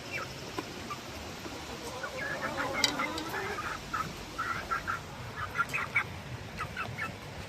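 Chickens squabbling over food, clucking and squawking in quick runs of short calls that start about two seconds in.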